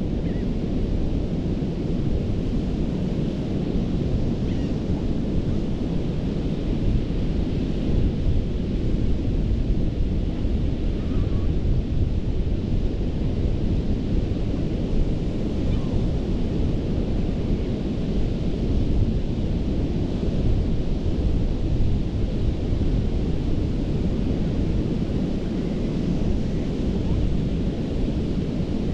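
Ocean surf washing onto a sandy beach, heard as a steady low rumble with no distinct breaks.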